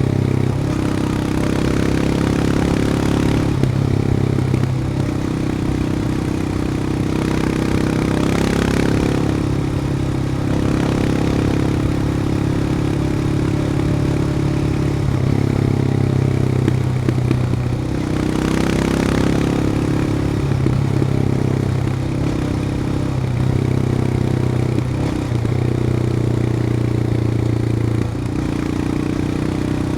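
Royal Enfield Himalayan's 411 cc single-cylinder engine running under way, its pitch stepping up and down several times with throttle and gear changes. Two brief hissing rushes of noise come and go, about a third and two thirds of the way through.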